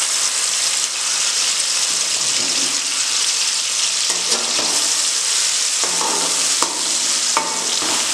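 Onion paste sizzling in hot oil in a metal kadai, a steady loud hiss of frying. A metal spatula scrapes and stirs it against the pan in the last couple of seconds.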